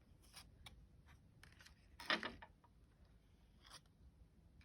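Oracle cards being handled and slid against one another: faint, scattered rubs and light clicks, with a louder stroke about two seconds in.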